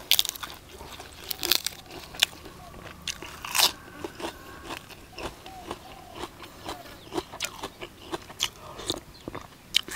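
A person chewing crunchy mouthfuls of crispy-skin duck laab with raw vegetables close to the microphone: irregular wet crunches, the loudest about three and a half seconds in.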